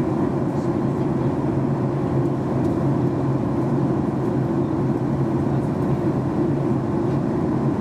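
Steady drone inside the cabin of a Boeing 737 MAX 8-200 airliner in flight: engine and airflow noise, low and even with a constant hum.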